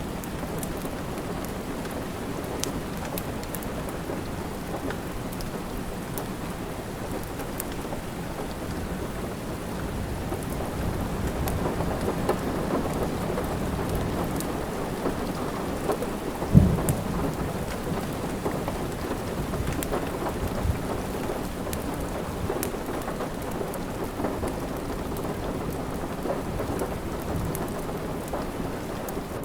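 Steady rain with a low thunder rumble that swells a little past the middle, and a fireplace crackling with scattered small snaps and one sharp pop about two thirds of the way through.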